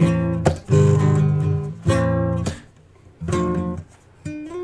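Acoustic guitar strumming short chords that are cut off between strokes, about one every second or so. Near the end a chord is left ringing.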